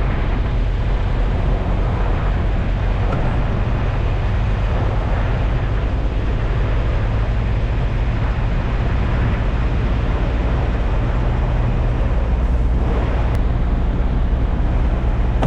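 Freightliner semi truck under way: a steady low diesel engine drone with an even rush of road noise.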